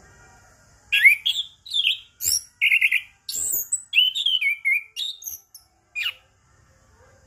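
Chestnut-capped thrush (anis kembang) singing a rapid run of varied, sweeping whistled and chattering notes. It starts about a second in and stops about six seconds in.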